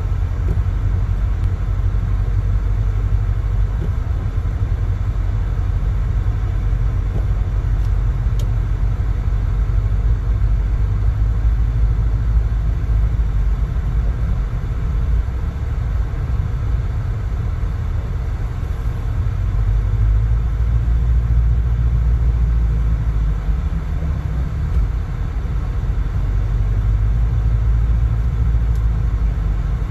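A motor vehicle driving, with a steady low rumble of engine and road noise.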